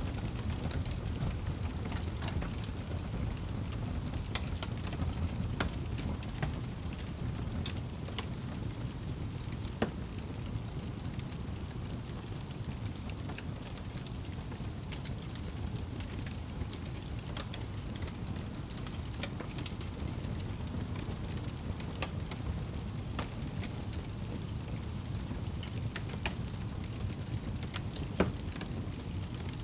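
Wood fire burning in a fireplace: a steady low rumble of flames with scattered crackles and pops, two sharper pops about a third of the way in and near the end.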